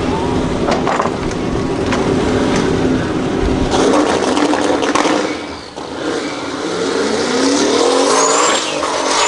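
A race car's engine running hard. A loud rush of noise comes in about four seconds in, and the engine pitch rises steadily around seven to eight seconds in, with brief high squeals near the end.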